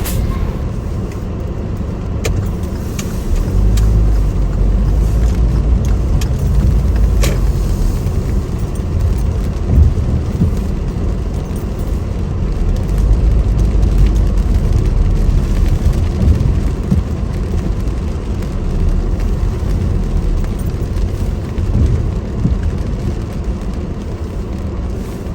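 Steady low rumble of a road vehicle driving, heard from inside, swelling and easing with a couple of faint clicks.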